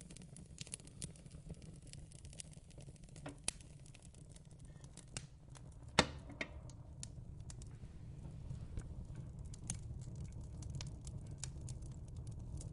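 Fireplace crackling: scattered small pops and ticks over a low steady rumble, with one louder pop about six seconds in.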